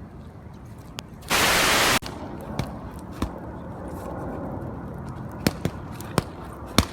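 Gloved punches hitting boxing focus mitts: sharp, irregular slaps, several close together near the end. About a second and a half in, a loud burst of hiss lasting under a second starts and stops abruptly.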